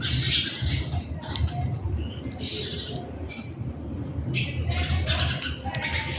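Small birds chirping in short, repeated bursts, several calling at once, over a steady low rumble.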